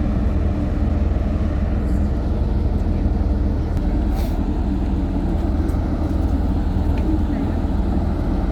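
Steady low rumble of wind buffeting the microphone on the open top deck of a ferry, mixed with the ship's machinery hum and faint voices of people nearby.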